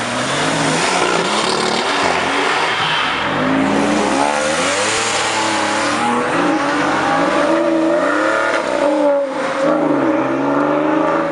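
Porsche 911's flat-six engine accelerating hard. The engine note climbs and drops again and again as it revs up through the gears, with a brief break in the sound just after 9 seconds in.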